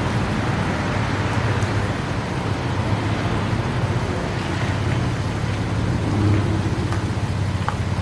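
Car engines running steadily, a loud, low, even drone with road-like noise over it.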